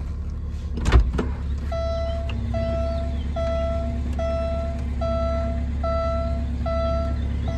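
1987 Alfa Romeo Spider's twin-cam four idling steadily a little over 1,000 rpm. About a second in there is a sharp click, and then the car's warning chime starts beeping evenly, about five beeps every four seconds, over the idle.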